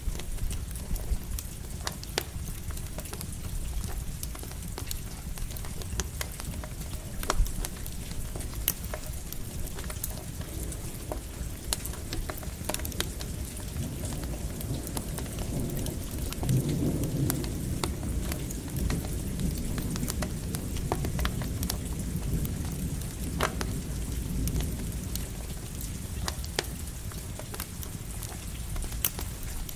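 Steady rain with a campfire crackling in scattered sharp pops, and a low rumble of distant thunder swelling up about halfway through and fading away.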